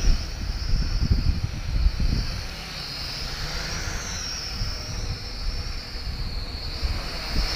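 Sky Viper V950 HD toy quadcopter's motors and propellers whining in flight, the pitch wavering up and down as it holds against gusty wind, with wind buffeting the microphone in low, uneven rumbles.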